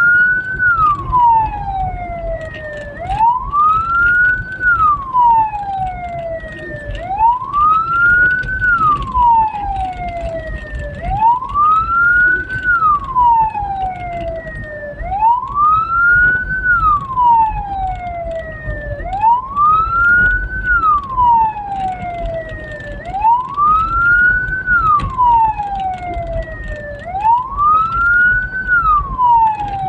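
Hearse siren wailing on a steady cycle, each wail rising quickly and then falling more slowly, about once every four seconds, over the low rumble of the vehicle driving.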